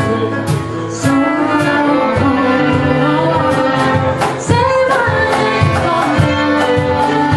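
A live folk band playing a song: sustained string notes over a steady hand-drum-like beat, with some singing.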